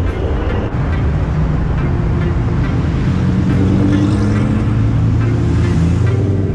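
Car engine and exhaust running loudly, with a deep steady tone whose pitch shifts a little in the middle.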